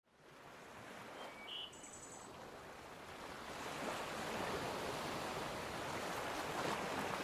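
Even rush of sea waves fading in from silence and slowly growing louder, with a few brief faint high chirps about a second and a half in.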